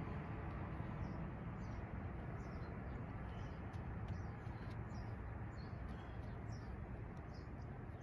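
A small bird chirping repeatedly, short high chirps coming about one to two a second, over a steady low outdoor rumble.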